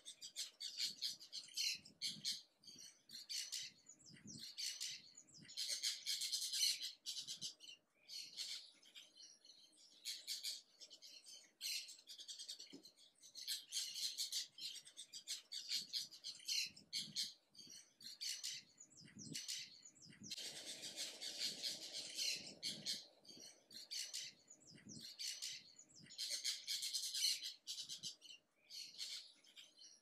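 Birds chirping and calling: many short, high calls overlapping in clusters that come and go every second or two, with a denser burst about twenty seconds in.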